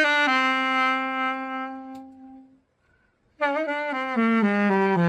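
Freshly overhauled Selmer Mark VI alto saxophone played solo. A phrase ends in a long held note that fades out, and after a short pause a descending run of notes starts down into the low register.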